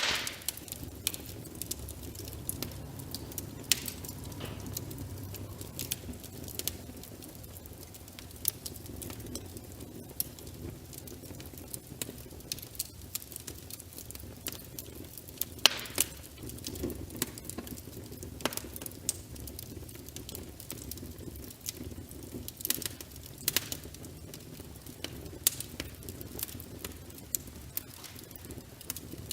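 Wood fire crackling, with frequent sharp pops and snaps over a low steady rush of burning logs. The loudest pops come at the very start and about sixteen seconds in.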